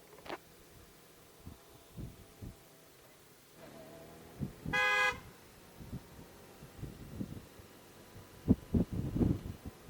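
A vehicle horn sounds once, a short toot of about half a second, midway through. Scattered low thumps and knocks follow, heaviest near the end.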